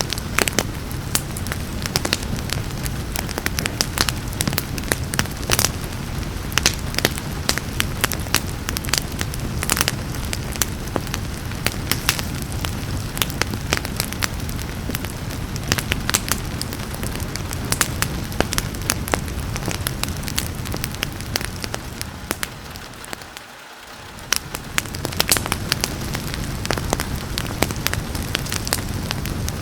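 Wood fire crackling with frequent sharp pops over a steady low rumble, with rain hissing beneath. The whole sound fades down briefly about three-quarters of the way through and swells back.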